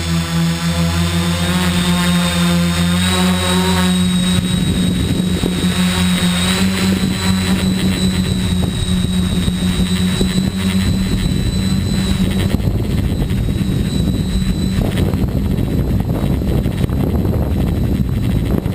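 Tricopter's three electric motors and propellers buzzing, with a steady high whine over the hum. About four seconds in, the even hum turns rough and fluttering.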